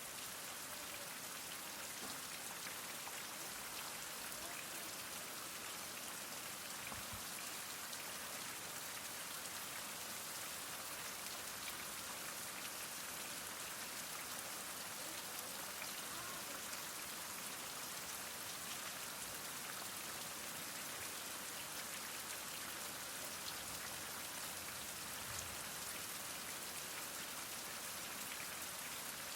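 Heavy rain falling steadily: a dense, even hiss of rainfall with individual drops ticking through it.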